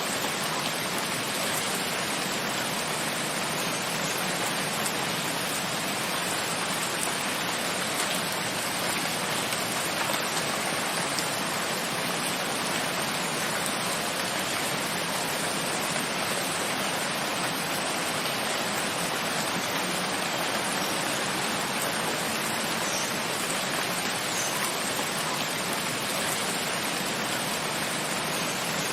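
Steady rain falling, a constant even hiss of many drops with no change in strength.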